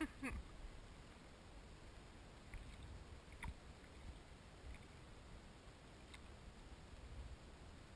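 Near silence on a drifting kayak: a faint low rumble, a short falling squeak at the very start, and a few light clicks.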